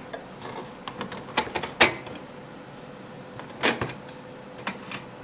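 Plastic instrument-cluster parts being handled and pulled apart, with scattered sharp clicks and knocks; the loudest come about two seconds in and again near four seconds.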